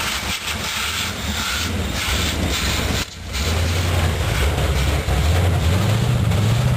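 Cold start of a 1977 Lincoln Continental Mark V's V8, primed with fuel poured down the carburetor. It sputters unevenly, cuts out for a moment about three seconds in, then catches and runs steadily, rising in pitch near the end as it is revved.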